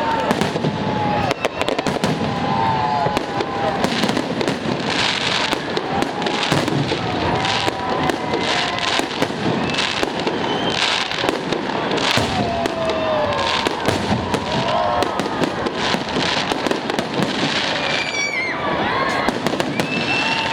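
Festive fireworks salute: a continuous run of bangs and crackling bursts, several a second, with a few whistling glides near the end.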